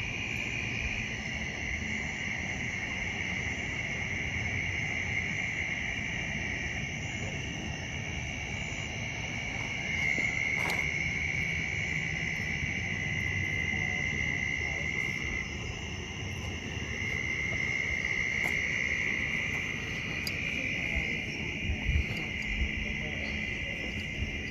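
Night chorus of insects: a steady, high shrill drone that swells and eases every few seconds, over a low rushing noise, with a few faint clicks.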